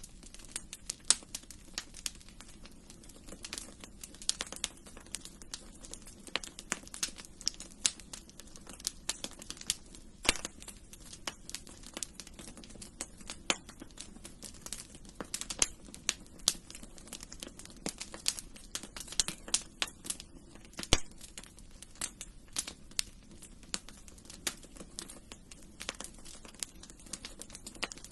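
Wood fire crackling in a fireplace: irregular sharp pops and snaps of varying loudness over a low, steady rumble of the flames.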